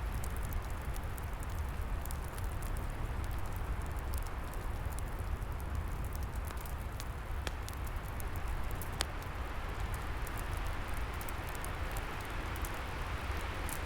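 Wood fire crackling, with scattered sharp pops (a clear one about nine seconds in) over a steady low rush of wind.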